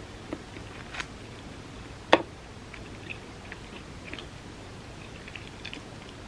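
Close-up mukbang eating sounds of a person chewing vegan spam musubi, with soft wet mouth clicks and crackles. One sharp click about two seconds in is the loudest sound.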